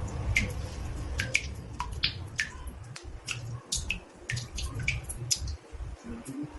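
Water drops falling into a bathtub: irregular, sharp plinks, about two to three a second, over a low rumble.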